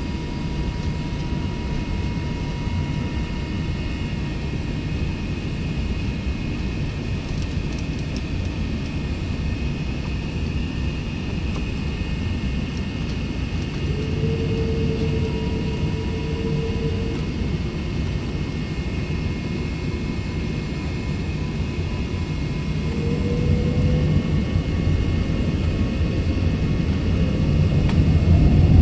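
Airbus A380 jet engines running: a steady low rumble with faint whining tones. It grows louder near the end.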